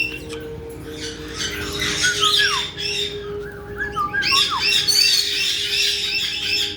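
Several caique parrots squawking and chirping in quick overlapping calls, with a few short falling whistles; the calling grows busier in the second half.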